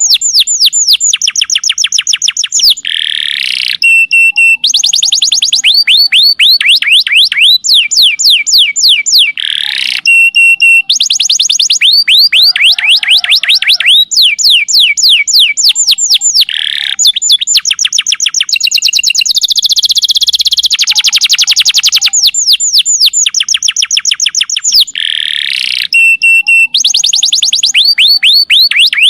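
Domestic canary song played as a tutoring (masteran) track: loud, high-pitched trills of rapidly repeated notes, changing from phrase to phrase. The same sequence of phrases comes round about every seven seconds, as in a looped recording.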